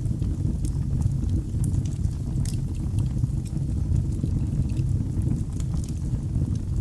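Wood fire burning in a fireplace: a steady low rumble of flames with frequent small sharp crackles and pops scattered throughout.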